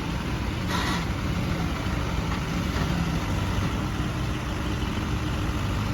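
Tractor diesel engine running steadily, with a brief sharp noise a little under a second in.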